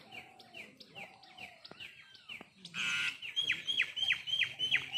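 Birds calling: a run of short, sharp falling chirps repeated again and again. About three seconds in there is a louder harsh call, then a faster, louder series of chirps at about four a second.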